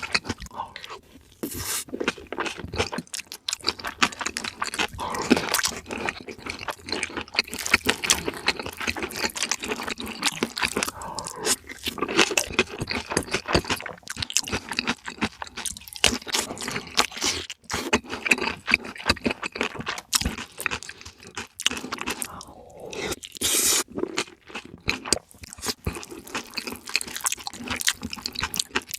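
Close-miked eating sounds: wet chewing and crunching of food in a fast, irregular run of clicks and smacks, with some scraping.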